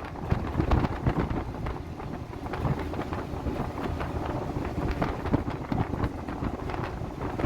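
Wind buffeting the microphone: an unsteady low rumble with irregular crackles.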